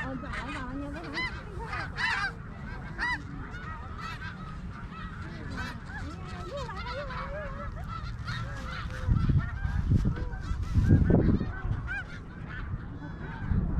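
A large flock of snow geese calling: many overlapping short, high honks without pause. Low gusts of wind buffet the microphone about nine and eleven seconds in.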